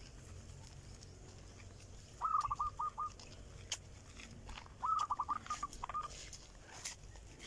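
A bird calling: two short series of quick, clear repeated notes, the first about two seconds in and the second about five seconds in.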